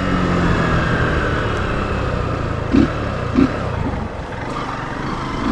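Motorcycle engine running steadily while riding, with two brief louder blips about halfway through.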